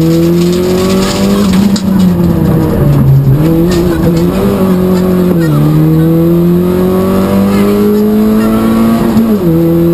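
Peugeot 106 XSi rally car's four-cylinder engine heard from inside the cabin, driven hard with the revs repeatedly climbing. The revs dip briefly about two seconds in, then drop sharply at gear changes about midway and again near the end before climbing again.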